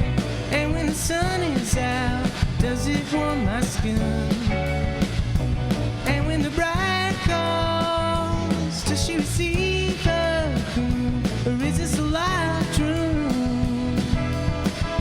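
Live rock band playing a song: singing over electric guitar, bass and drums, at a steady full level.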